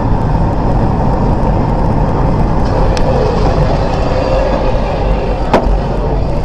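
A motor vehicle running: a loud, steady noise without speech, with two sharp clicks about three and five and a half seconds in.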